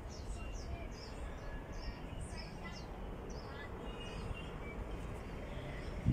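Small birds chirping in the trees: a run of short, high, falling chirps, two or three a second, that dies away about four seconds in, over a steady low background noise, with a thump right at the end.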